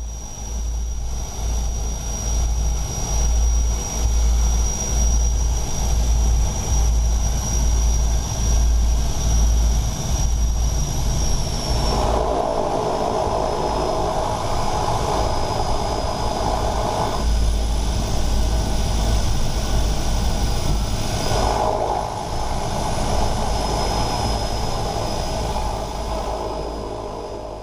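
Twin turboprop engines of a DHC-6 Twin Otter running as the aircraft taxis after landing, heard inside the cockpit: a steady high whine over a deep pulsing throb. The engine note shifts about 12 seconds in and again about 21 seconds in.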